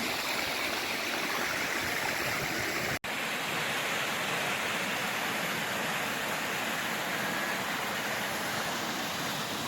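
Mountain stream rushing steadily, cut off for a split second about three seconds in.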